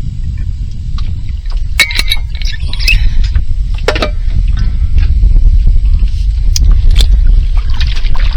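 Wind rumbling on the microphone during kayak paddling, with a few sharp knocks and short splashy patches from the paddle and the kayak hull.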